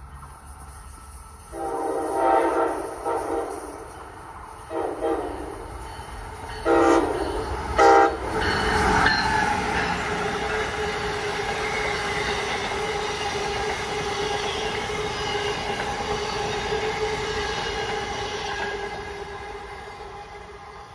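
Amtrak ACS-64 electric locomotive sounding its horn as it approaches: one long blast, then three shorter ones. The train then passes close by with a loud, steady rumble and a steady whine, fading away near the end.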